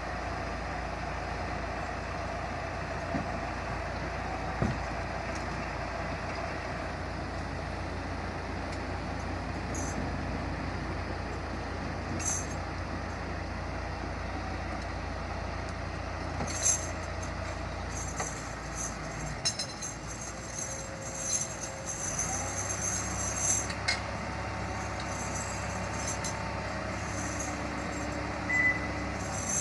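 Steady rumble of a large vehicle running, with scattered clicks and brief high squeaks in the second half.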